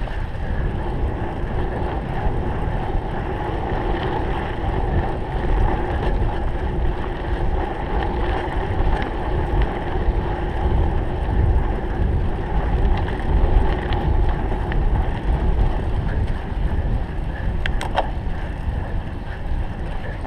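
Wind buffeting the microphone of a camera on a cyclocross bike being raced, mixed with the bike's riding noise, with a few sharp clicks near the end.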